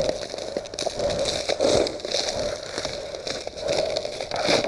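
Thin ice crunching and crackling under a mini bike being slid across a frozen pond, with many small irregular cracks and scraping.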